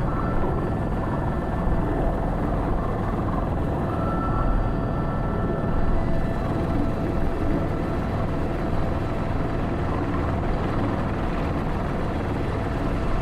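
Airbus H125 helicopter in flight, heard from the cockpit: its single turboshaft engine and main rotor running steadily, with a steady high whine over the rotor noise.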